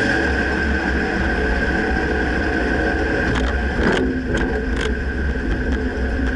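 Dodge Ram pickup on the move, a steady low rumble with a steady high tone over it; from about halfway in, a run of sharp knocks comes through, the front-end clunk whose source has not been pinpointed.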